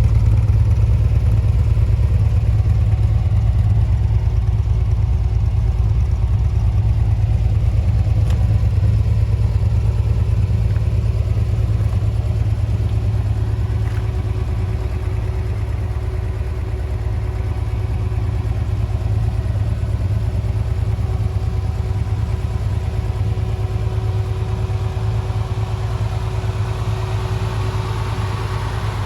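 Modified 1977 Datsun 280Z's engine idling steadily while it warms up after a cold start, a deep even hum that eases off slightly in loudness over the stretch.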